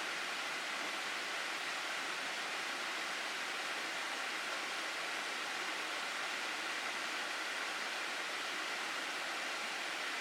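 Water rushing steadily down a mountain gorge stream, an even, unbroken hiss of flowing water.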